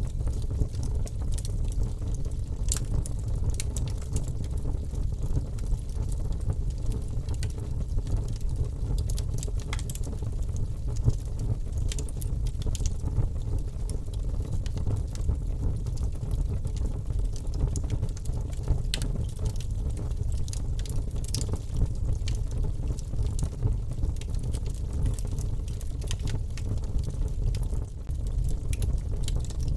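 Wood fire in a fireplace crackling, with scattered sharp pops and snaps over a steady low rumble of the burning.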